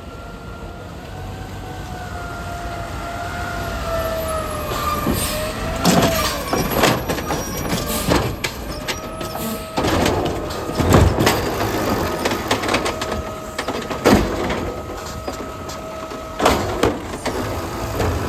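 Garbage truck at work: a steady whine that wavers slightly in pitch over the engine, with a series of sharp metallic clanks and bangs starting about five seconds in, as of a bin being lifted, shaken out and set down.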